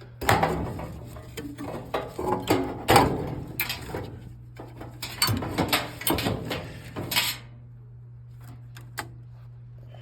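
Metal and plastic parts clattering and knocking as they are handled and pulled aside inside an HVAC unit's blower compartment, for about seven seconds, over a steady low hum.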